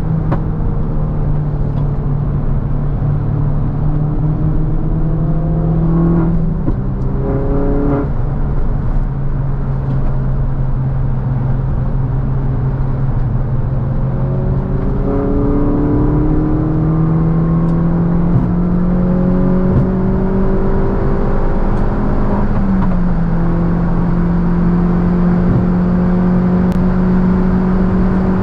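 R56 Mini Cooper S's turbocharged 1.6-litre four-cylinder engine running under way, heard from inside the cabin. The engine note dips and breaks about six to eight seconds in, as with a gear change, then climbs steadily from about fifteen seconds as the car accelerates, and drops back near twenty-three seconds.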